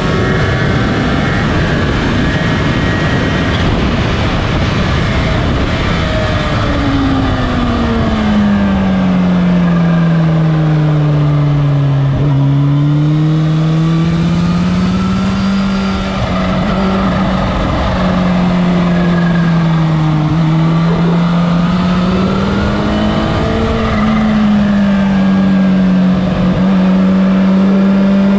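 Motorcycle engine running at speed on a race track over a steady rushing noise. The engine note falls for several seconds, as when slowing for a corner, then climbs again and holds, dipping and rising once more near the end.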